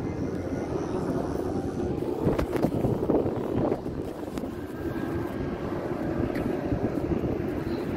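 Steady drone of a motor vehicle's engine running nearby, with a few brief knocks between about two and four seconds in.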